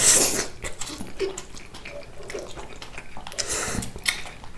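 Eating noises from a bowl of hotpot noodles: a loud slurp right at the start and another near the end, with short clicks of utensils against the bowl in between.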